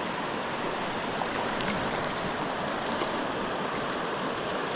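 A mountain river rushing steadily over rocks.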